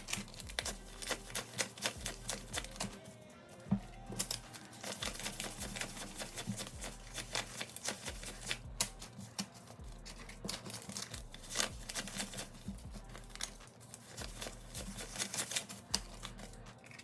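Paper banknotes being handled and counted: many quick, crisp flicks and rustles of bills, with soft background music underneath.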